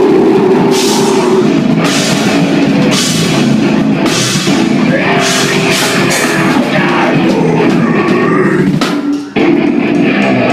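Live heavy rock band playing loud and dense, with distorted guitars and a drum kit whose cymbals crash about once a second. The sound cuts out briefly near the end and then carries on.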